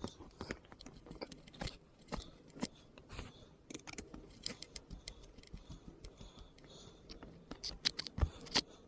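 Irregular small clicks, taps and scrapes of hard plastic parts being handled while a Reef Raw 500 RC servo is taken apart by hand.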